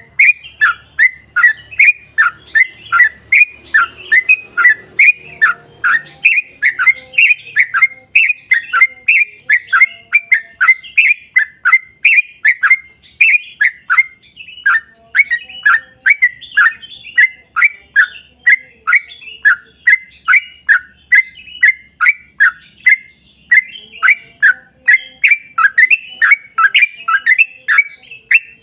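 Yellow-vented bulbul (trucukan) singing a long, unbroken run of short, loud chirping notes, each sweeping downward, about three a second.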